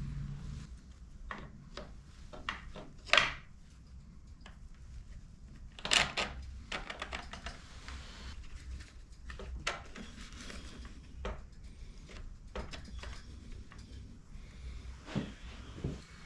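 Hand tools and metal parts clinking and knocking during motorcycle rear-suspension work, with two louder knocks about 3 and 6 seconds in and lighter clicks between.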